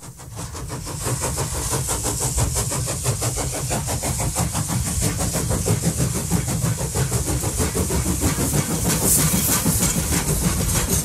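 A train running steadily, a low rumble with a rapid even pulsing and a hiss, fading in over the first second or two.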